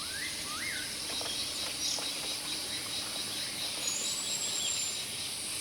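Montane forest ambience: insects droning steadily at a high pitch with a faint rapid pulse. A bird gives a couple of short rising, warbling whistles in the first second, and a thin, very high whistle comes about four seconds in.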